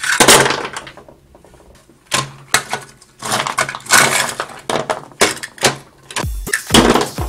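Irregular clatter and scraping of large plastic construction toys being moved by hand, in short separate bursts. A low steady beat of background music comes in near the end.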